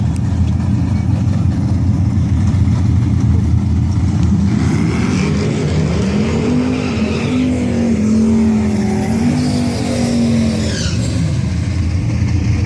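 A car accelerating hard down a drag strip: its engine note comes in about four seconds in, climbs and wavers, and fades after about ten seconds, over a steady low rumble.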